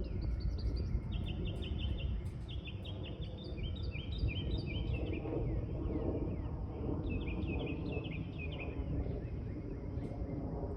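Songbirds singing in quick trills of repeated chirps over a steady low rumble.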